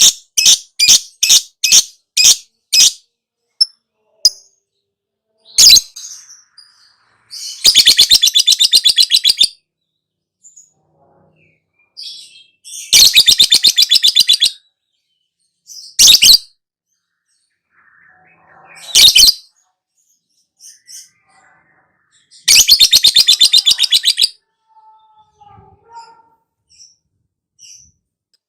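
Lovebird ngekek song: a string of sharp, high chirps, then three fast chattering trills of about two seconds each, with single shrill calls in between.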